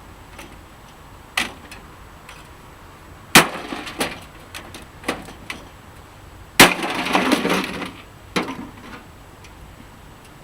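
A splitting maul striking the sheet-metal chassis of a scrap microwave. There are two loud strikes about three seconds apart, each followed by about a second of rattling, loose metal, with a few lighter knocks between.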